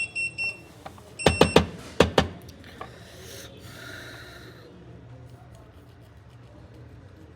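A few short high electronic beeps, then a run of about five sharp clicks or knocks, the loudest sounds here, about a second in. A brief hiss of about a second and a half follows.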